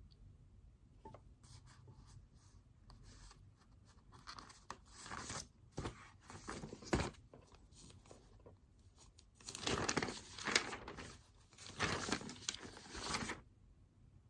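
Paper being torn and handled in a series of irregular noisy rips, with the loudest, longest run in the last few seconds before it stops.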